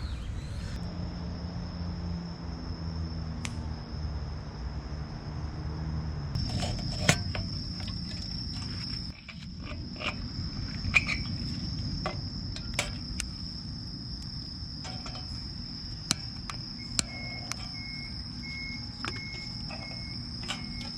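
Crickets trilling steadily at a high pitch, joined in the second half by another insect chirping in short, evenly repeated pulses. Sharp, scattered pops and cracks from a freshly lit wood-and-bamboo campfire come through now and then.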